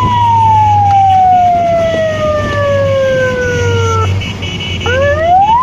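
A siren wailing: one long slow falling sweep that breaks off about four seconds in, then a quick rise back up to a steady high tone near the end, over a steady low rumble.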